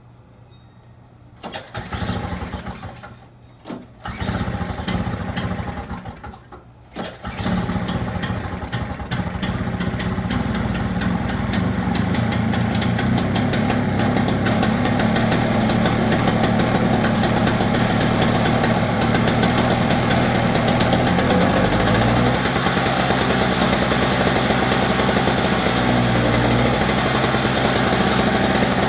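Toro CCR 2450 snowblower's two-stroke engine being pull-started on a flooded carburetor: it sputters in several short bursts over the first few seconds, then catches about seven seconds in and keeps running steadily, idling high.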